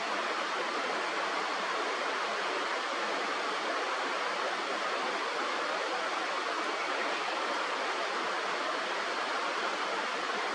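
Steady rushing of flowing river water, an even noise with no pauses.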